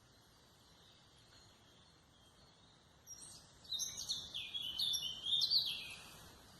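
A songbird singing one phrase of quick, high, descending notes, about three seconds long, over faint distant birdsong.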